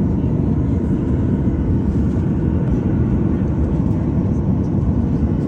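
Steady low rumble inside the cabin of a Boeing 737-800 on the ground after landing: its engines at idle together with the air-conditioning. The level stays constant, with no distinct events.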